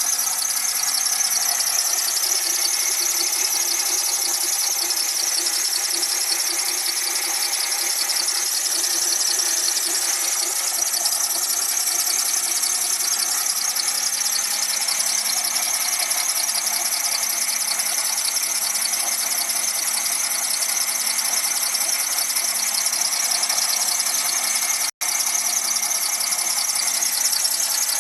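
Renault Symbol giving off a steady, high-pitched whistling squeal over its running engine, with a momentary break about 25 seconds in. The owner has not been able to find what is causing the whistle.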